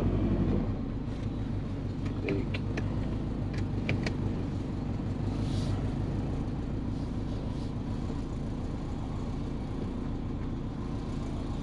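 Turbocharged Subaru Forester's EJ20 flat-four engine running steadily at low revs with no revving. A few light clicks come in the first four seconds.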